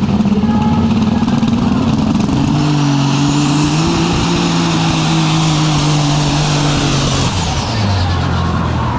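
Superstock pulling tractor's turbocharged diesel engine at full power during a pull, its pitch climbing over the first few seconds with a high whine rising above it. About seven seconds in the engine drops sharply as it comes off the throttle at the end of the run.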